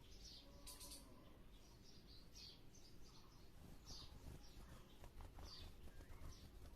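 Faint, short, high bird chirps, about half a dozen spaced a second or so apart, over a low background hum.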